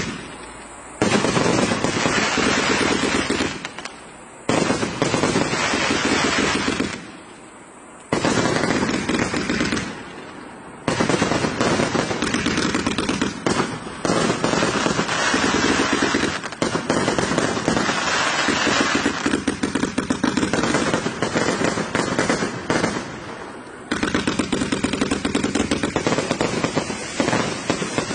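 A 1088-shot Tang Hua fireworks cake firing: long strings of rapid shots in quick succession, broken by short pauses of about a second between sequences.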